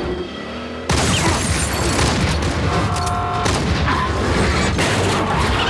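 Film action-scene sound mix: a sudden loud boom or crash about a second in, then dense crashing noise with music underneath.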